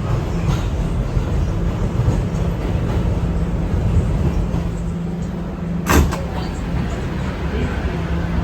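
Steady low rumble and hum inside an R211 subway car, with one sharp knock about six seconds in.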